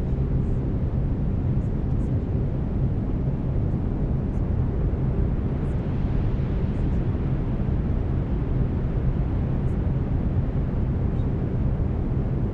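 Steady brown noise, a low hiss heaviest in the bass and thinning toward the treble, with faint steady low tones of binaural beats underneath.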